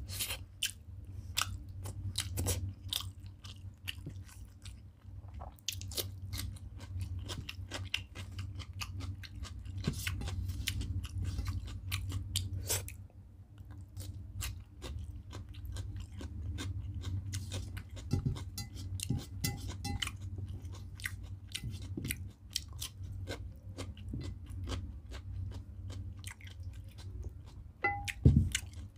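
Close-up wet chewing and lip-smacking of a mouthful of rice and chicken curry eaten by hand, with many sharp crisp mouth clicks. Near the end a steel bowl clinks once against a steel plate.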